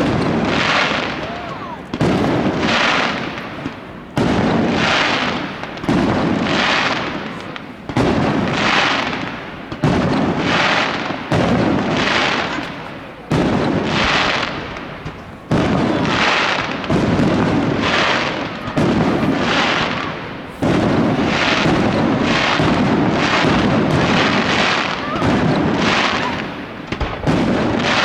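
Fireworks display: aerial shells bursting in a rapid series of loud booms, about one every one to two seconds, each with a long fading tail. The bursts run together into a near-continuous barrage in the second half.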